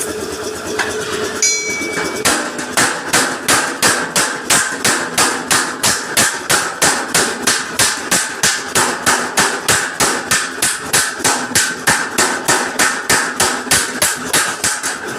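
Hammer beating out a dent in a truck's front bumper: steady, evenly paced blows, about three a second, starting about two seconds in after a single short ringing clink.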